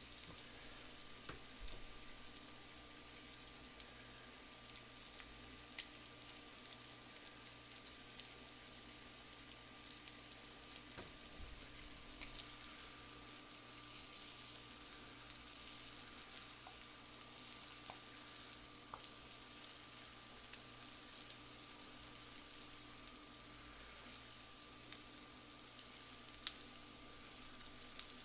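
Perch roe frying in butter in a skillet: a faint, steady sizzle with scattered small crackles and pops, swelling a little around the middle.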